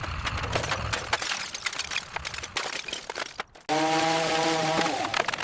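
Restoration work noise: a run of rapid knocks, cracks and clatter, then, after a sudden cut, a power tool's motor running with a steady whine for about a second and a half.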